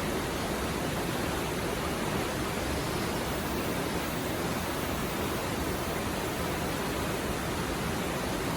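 Mountain stream water flowing over rocks, a steady, even rush of babbling water.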